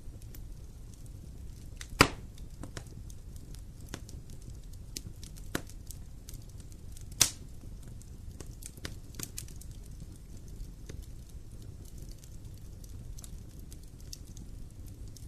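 Campfire crackling, with scattered snaps and two loud pops about two seconds in and about seven seconds in, over a low steady rumble.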